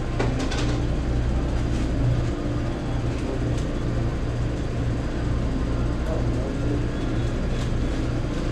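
Car engine idling: a steady low hum, with a few light clicks shortly after the start.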